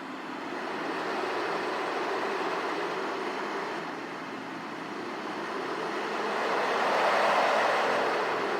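A steady rushing noise that swells, dips about four seconds in, then grows loudest about seven seconds in.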